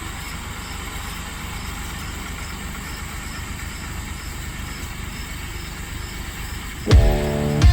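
Farm tractor engine running steadily with a low rumble. Loud rock music with a heavy beat cuts in near the end.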